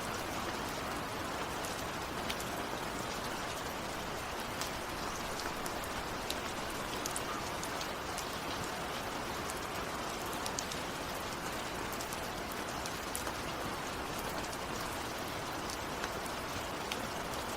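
Steady heavy rain falling on a surface, an even hiss with close drops ticking sharply throughout.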